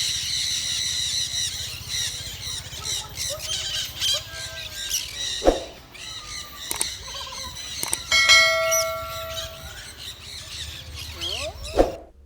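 Parrots and other aviary birds calling together: a dense mix of squawks, chirps and gliding whistles. One long, steady whistle-like call comes about eight seconds in, with a couple of sharp knocks and a low hum underneath.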